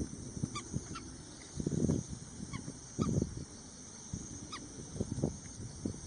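Birds calling: short low calls recur every second or two, with a few faint, short high notes falling in pitch every couple of seconds.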